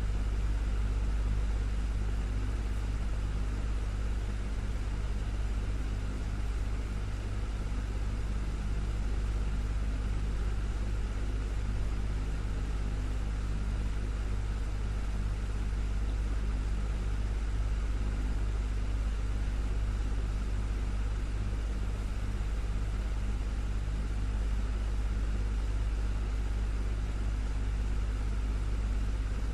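Desktop fan running steadily: a deep, constant hum under an even whir of moving air.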